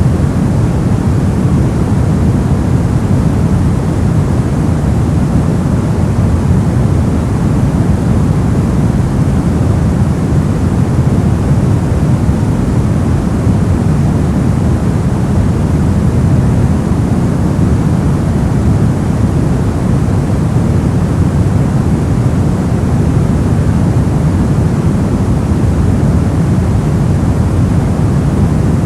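A continuous generated noise track, sold as white noise. It is steady and unchanging, and heavier in the low end, so it sounds like a deep, even rush rather than a bright hiss.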